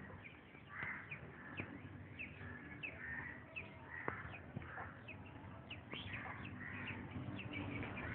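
A flock of small birds chirping: many short, quick downward-sliding chirps overlapping, several a second, over a faint low hum.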